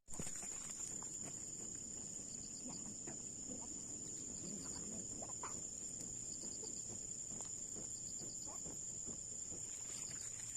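A steady high-pitched insect chorus, with small groups of quick repeated chirps over it and a faint low murmur beneath.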